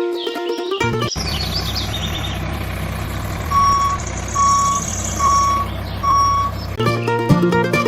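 A vehicle engine running steadily while its reversing alarm beeps four times, evenly spaced under a second apart. Music plays briefly at the start and again near the end.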